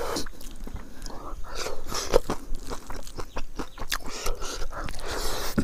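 Close-up chewing of crunchy food: irregular crunches and wet mouth clicks.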